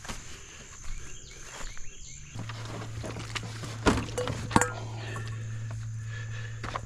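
Camping gear being handled, with scattered clicks and two sharper knocks a little past halfway, over a steady low hum that starts about two seconds in.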